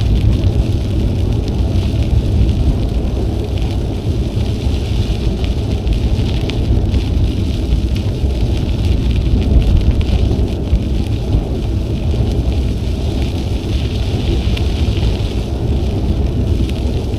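Wind buffeting the action camera's microphone while cycling, a steady low rumble, over a fine crackle of bicycle tyres rolling on the trail surface.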